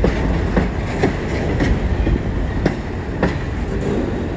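Freight train's autorack cars rolling past close by: a steady low rumble of wheels on rail, broken by irregular sharp clacks.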